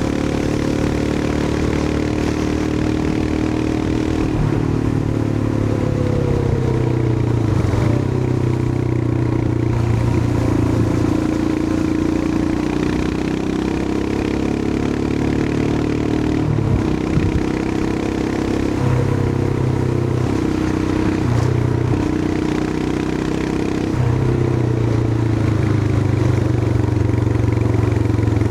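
Royal Enfield Himalayan 411's single-cylinder engine running under way, its note falling and rising several times with throttle and gear changes, and a brief break about two-thirds of the way through. A steady rush of wind noise sits over the engine.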